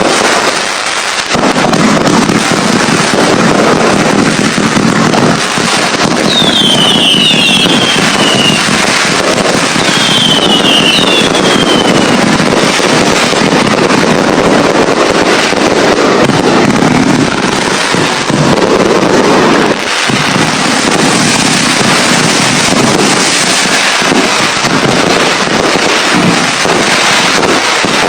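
Fireworks going off in a dense, continuous barrage of crackles and bangs. Two groups of short falling whistles come through, about six and about ten seconds in.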